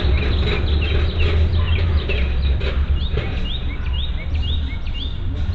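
A bird calling in a rapid series of short, repeated chirps, over a loud, steady low rumble.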